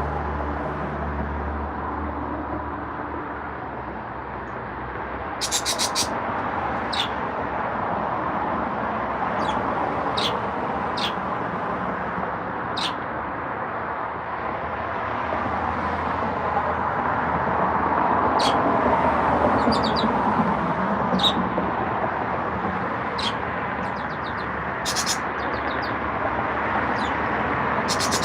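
Pet birds chirping in short, scattered calls, about a dozen through the stretch, over a steady rushing background noise.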